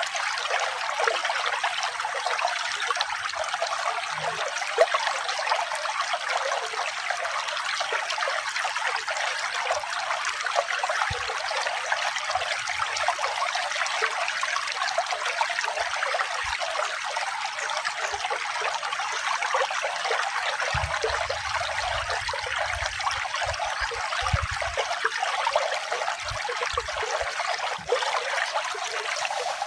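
Running water trickling steadily, with no breaks or changes.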